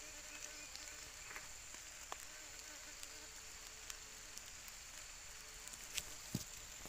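Steady high-pitched insect drone over a faint crackling background, with two sharp clicks near the end.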